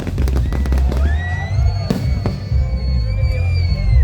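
Fireworks going off: a rapid crackling in the first second, then a long high whistle that rises at its start and holds steady until near the end, with two sharp bangs around the middle.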